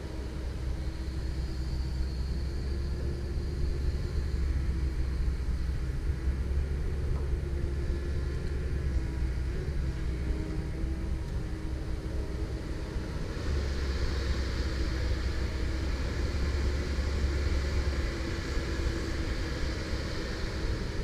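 Komatsu PC170LC-10 excavator working, its diesel engine running steadily with a deep rumble. A higher hiss from the hydraulics comes in briefly about two seconds in, then returns from about two-thirds of the way through as the engine note grows heavier under load.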